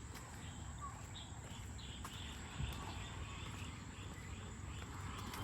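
A small animal calling in a quick run of short, high chirps, about three a second, over a low outdoor rumble, with one soft low bump about halfway through.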